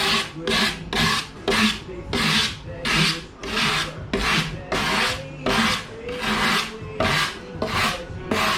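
Hand rougher, a rasp-like taxidermy tool, scraping back and forth over a deer mannequin form to roughen its smooth surface so glue will grip. The strokes are even and rhythmic, about two a second.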